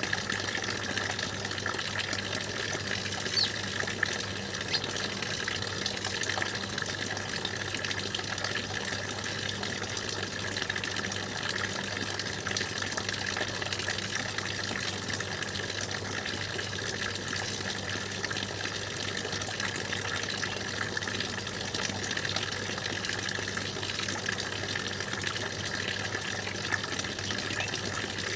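Stream water flowing and splashing steadily. Two brief sharp sounds stand out over it, about three and a half and five seconds in.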